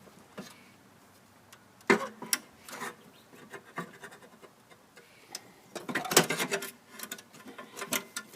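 Hand work on the drive axle of a walk-behind mower: scraping and sharp clicks as wire and packed debris wrapped around the axle are worked loose. There is a loud knock about two seconds in and a cluster of clicks around six seconds in.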